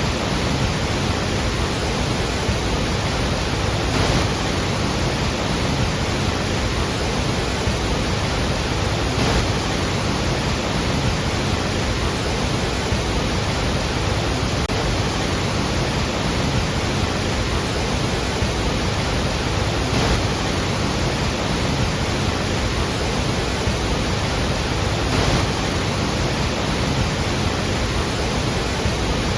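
Iguazu Falls: a large waterfall's falling water as a steady, dense rush of noise that never lets up.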